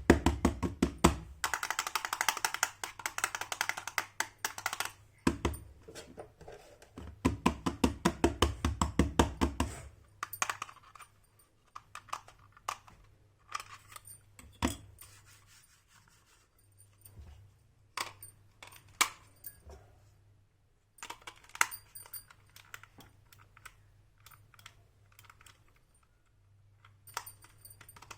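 Small plastic toy pieces being handled: two long runs of quick clicking and rattling, then scattered single taps and clicks.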